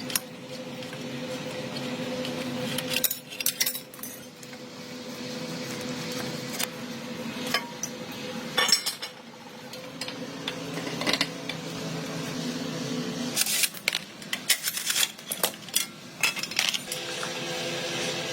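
Small metal parts clinking and knocking against each other in scattered clusters, over a steady machine hum.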